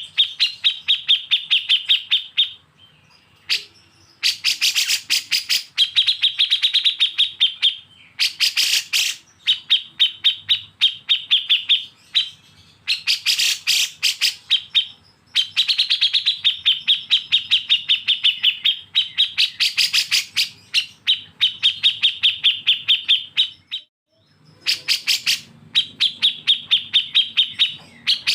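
A songbird singing rapid runs of harsh, sharp notes, about ten a second, in repeated phrases of one to three seconds with short pauses between them.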